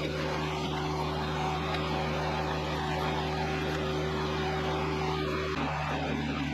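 Kioti CS2520S subcompact tractor's diesel engine running steadily under backhoe work, with a hum whose tone shifts about five and a half seconds in.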